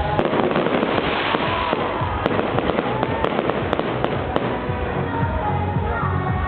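Fireworks display: dense crackling and popping of bursting shells, thickest in the first few seconds, with music playing throughout.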